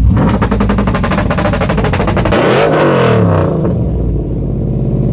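A pickup truck engine revving hard through a loud exhaust, with a rapid run of pops that rises and then falls in pitch. About three and a half seconds in it drops back to a steady low running.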